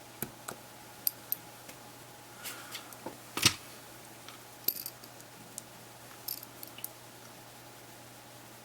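Scattered small clicks, taps and brief scrapes of hard plastic parts and small tools being handled while a handheld media player is taken apart. The loudest is a sharp click about three and a half seconds in.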